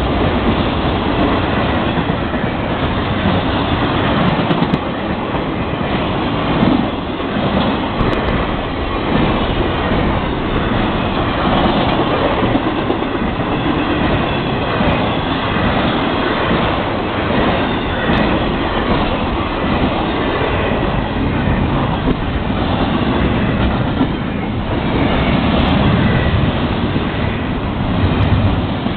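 Long freight train of autorack and double-stack container cars rolling steadily past close by. Steel wheels run on the rails with a continuous rumble and repeated clacks.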